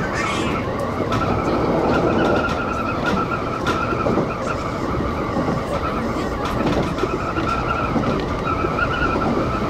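Kintetsu electric express train rolling along the track, with a continuous wavering high squeal of wheels against the rails over the running rumble and scattered clicks from the wheels.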